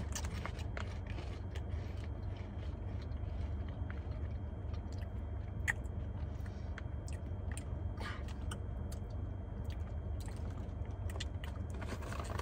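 Two people chewing ridged potato chips with scattered crunches and crackles, over a steady low hum.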